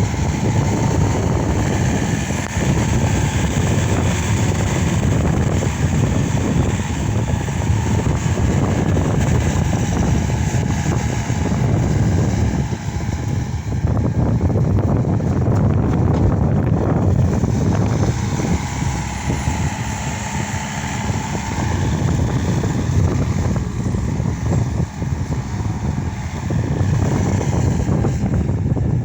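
Case SR200 skid steer loader's diesel engine running steadily under load, its sound swelling and easing as the machine works.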